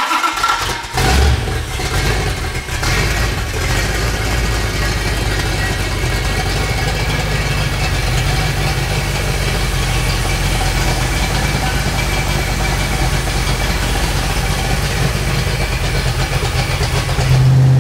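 Freshly rebuilt Chrysler 440 big-block V8 on an engine run-in stand, just fired and running steadily through its stand exhaust for the break-in of its flat-tappet camshaft. It settles within the first second or two, and the engine note grows a little stronger near the end.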